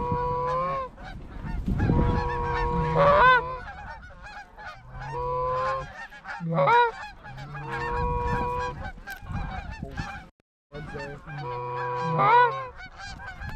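Geese honking: a run of drawn-out honks, each held on one note and breaking upward at the end, with a brief cut-out in the sound near the end.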